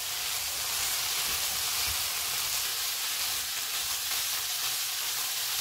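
Chicken pieces, capsicum and onion frying in hot oil in a pan, sizzling steadily.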